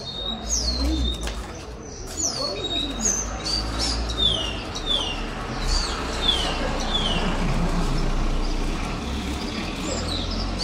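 Canary singing: a run of repeated high whistled notes, each sliding downward, about two a second, over a low rumble.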